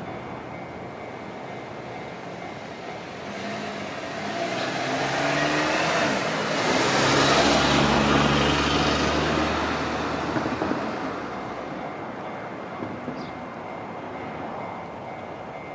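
Electric passenger train passing over a level crossing: its running noise swells over a few seconds, with a tone that rises in pitch as it approaches, peaks in the middle and fades away. The crossing's warning bell rings steadily throughout.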